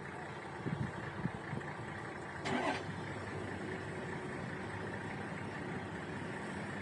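Vehicle engine idling steadily, with one short louder sound about two and a half seconds in.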